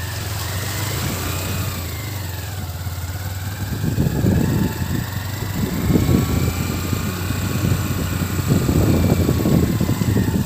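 Motorcycle engine running while being ridden, its pitch slowly rising and falling. Uneven low rumbling sets in about four seconds in.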